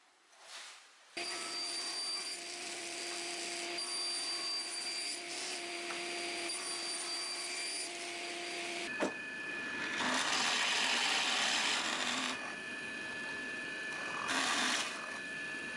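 A small electric power tool running and working on wood. It starts abruptly about a second in, changes pitch after a click about nine seconds in, and grows louder for two stretches, as if pressed harder into the wood.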